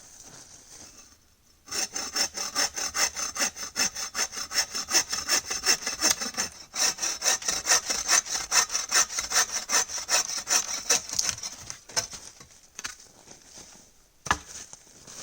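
Hand saw cutting through wood in quick, even back-and-forth strokes, stopping about eleven seconds in; a couple of knocks follow near the end.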